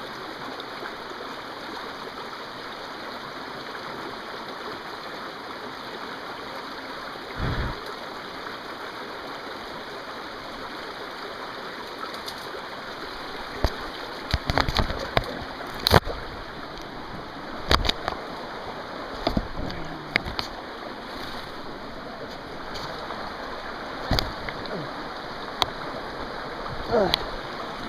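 A stream running steadily, with sharp snaps and crackles of twigs and brush underfoot, scattered from about halfway through.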